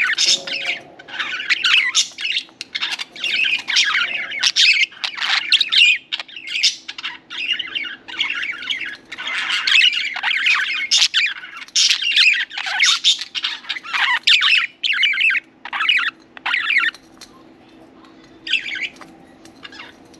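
Budgerigars chattering and chirping in a rapid, busy warble, thinning after about seventeen seconds to a few scattered calls.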